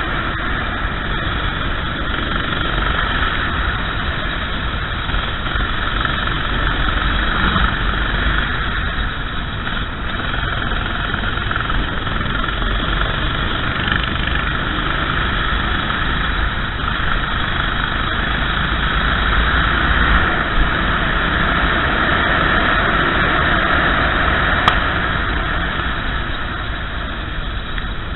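Go-kart engine running steadily under way, with a steady hiss over it and a single sharp click about twenty-five seconds in.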